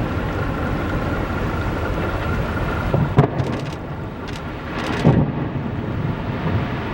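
Steady rushing noise of storm wind, with a faint high tone in the first half and a few sharp knocks about three and five seconds in.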